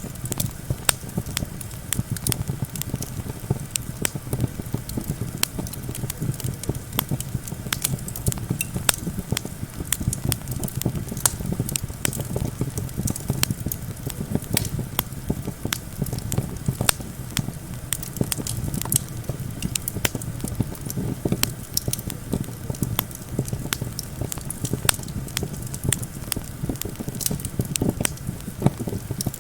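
Campfire crackling with frequent sharp pops over a steady low rush of wind.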